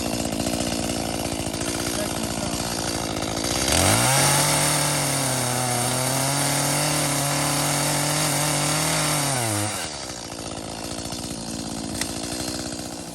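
Two-stroke chainsaw running on 50:1 mix: idling, then revved up hard about four seconds in and held at high speed for about six seconds before dropping back to idle.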